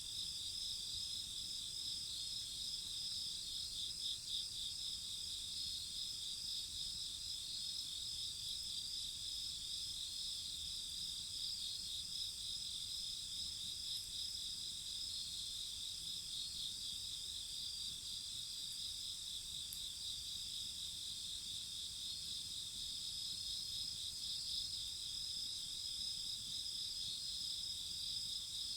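A chorus of crickets and other night insects, trilling steadily at a high pitch with a fast pulsing in the lower of the trills.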